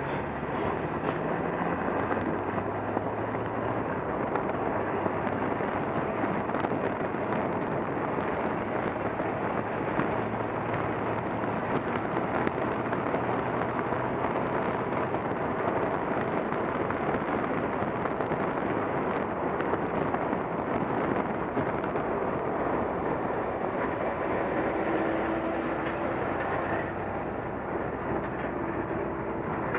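Steady rush of wind and road noise while riding a motorcycle, with a low engine hum coming and going underneath.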